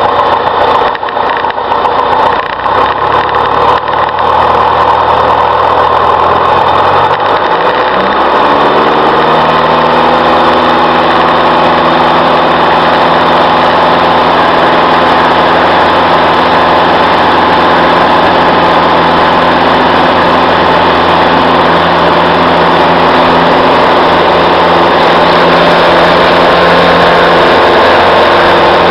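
Piper PA-28-151 Warrior's four-cylinder Lycoming engine running loud and steady. About seven to nine seconds in its pitch climbs as the rpm comes up, then it holds steady at high power.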